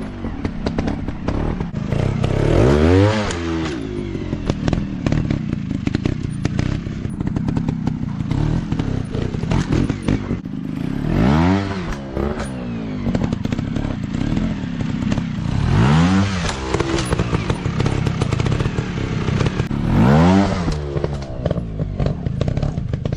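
Dirt bike engine being revved up and dropping back four times, with lower running and clattering in between.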